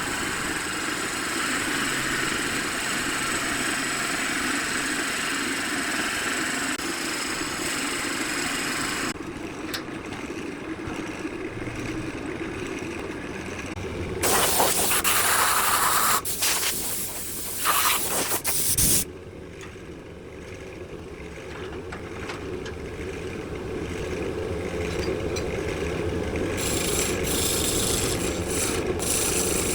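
Woodworking shop tools running on wood and resin in a run of cut-together clips: a steady machine noise with rubbing and rasping. The sound changes abruptly several times, and there is a louder stretch in the middle.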